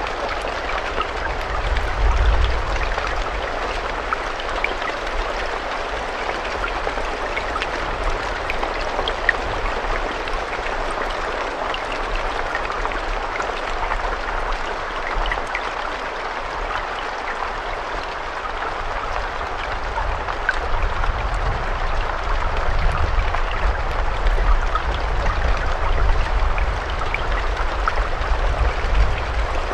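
Steady rain, a continuous hiss of water with many small drops ticking through it. A low rumble underneath grows stronger in the second half.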